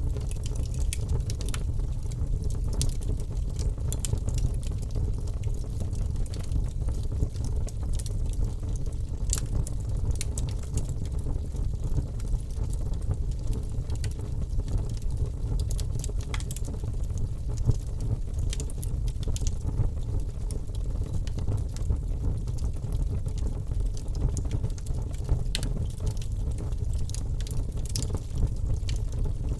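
Wood fire in a fireplace crackling, with frequent irregular sharp pops and snaps over a steady low rumble from the flames.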